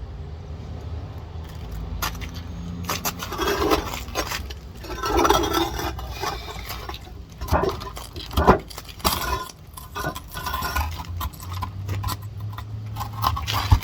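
Rock hammer striking a large geode, irregular sharp clinks of steel on stone as the blows drive a crack through the rock.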